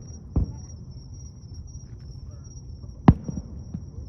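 Aerial fireworks shells bursting: two sharp bangs about three seconds apart, the second much louder and followed by a few smaller cracks, over a murmur of crowd voices and a steady high-pitched tone.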